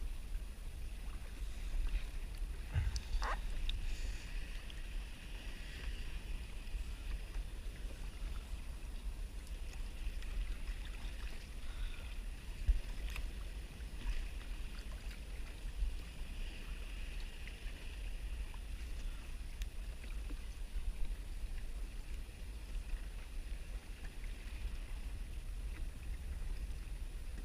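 Sea water splashing and lapping around a kayak, over a steady low rumble, with a few faint clicks.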